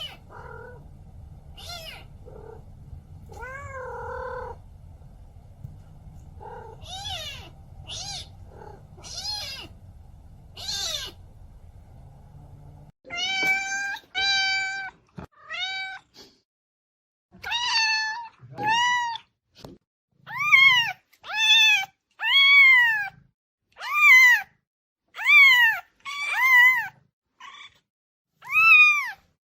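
Kitten meowing again and again. Soft calls over a low hum for the first dozen seconds, then a run of loud, high meows, each rising and falling in pitch, about one a second.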